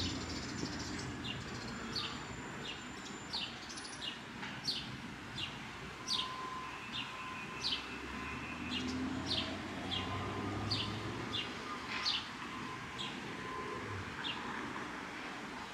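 Small birds chirping: short, falling chirps, about one or two a second and irregularly spaced, over a steady low hum of city traffic.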